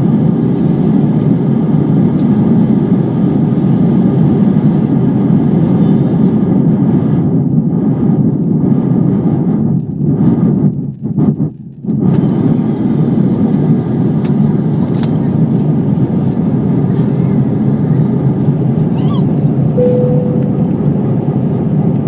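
Steady cabin noise inside an Airbus A320 airliner in flight: a low rumble of engine and airflow. It cuts out briefly and unevenly about ten to twelve seconds in, and a short tone is heard near the end.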